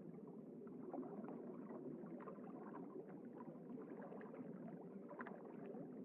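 Faint underwater ambience: a steady watery rush with scattered light ticks.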